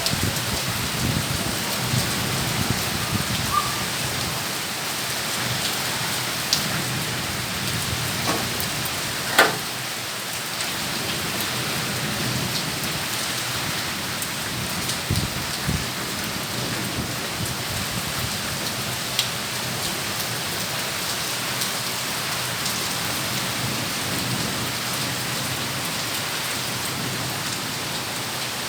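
Heavy rain pouring steadily, drops splashing on surfaces, with a few sharp drip taps, the loudest about nine seconds in.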